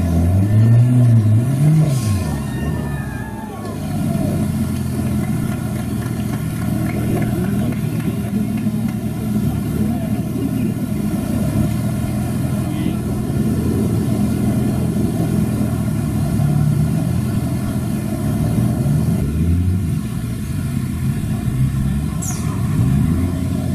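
Off-road race 4x4's engine revving as the vehicle crawls out of a rocky riverbed. The revs rise and fall sharply near the start and again near the end, and run steadier in between.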